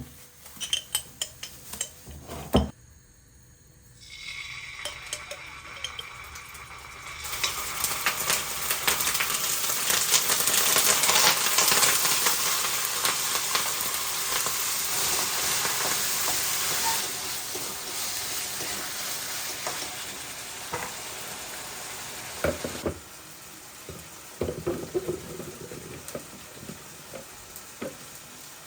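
Food sizzling as it fries in a pan, with scattered clinks and knocks of a utensil against the cookware. The sizzle builds a few seconds in, is loudest for about ten seconds, then dies down, leaving a few clinks near the end.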